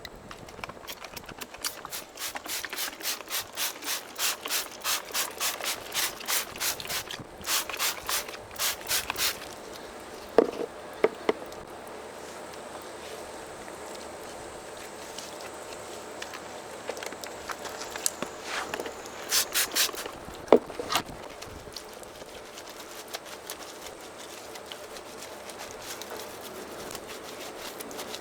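A brush scrubbing a car wheel and tyre in quick strokes, about two a second, in two runs, with a few sharp knocks between them.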